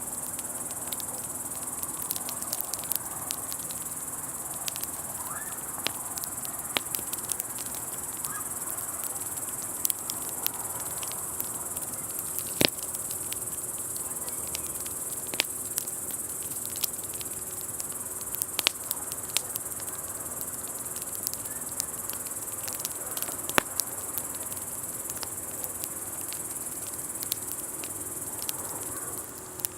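Steady high-pitched chirring of crickets, scattered with sharp crackles and pops from a burning wood campfire. The chirring cuts off just before the end.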